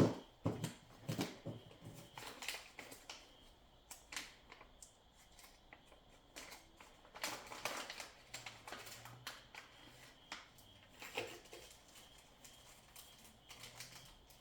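Irregular clicks, snips and rustles of packaging and parts being handled, beginning with a sharp knock.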